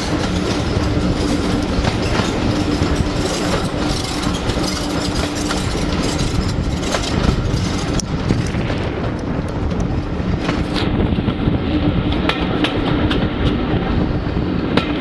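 Heritage railway carriage running along the line, heard from inside: a steady rumble and hum from the wheels, with irregular clicks as they pass over rail joints.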